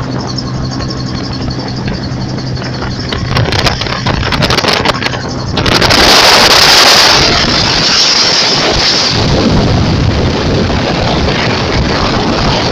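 A motor vehicle running with a steady hum. About six seconds in, a loud rushing noise takes over and carries on to the end.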